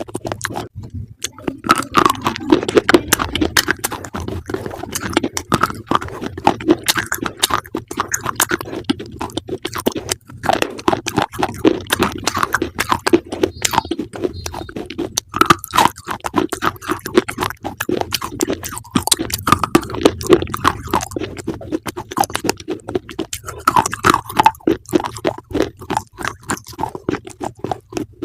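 Close-up chewing of crunchy food: a dense, continuous run of crisp crunches.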